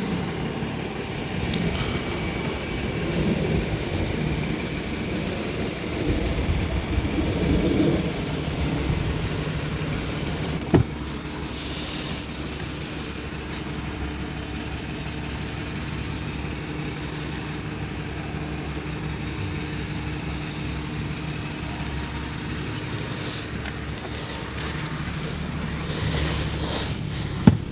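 Kia Stinger's engine idling steadily, with one sharp knock about eleven seconds in.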